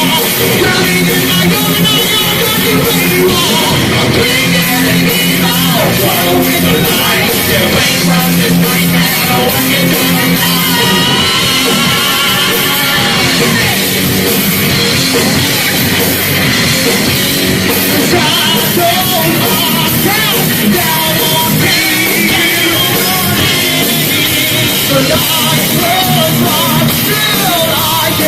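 Live heavy metal band playing loudly with distorted electric guitars, bass and drums; sung or shouted vocals come and go.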